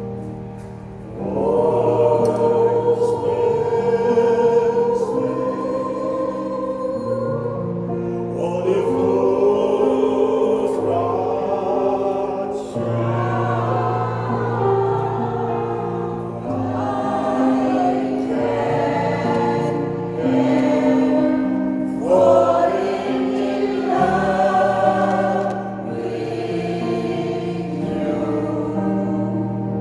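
Choir of senior singers singing together with piano accompaniment; the voices come in about a second in over held low notes.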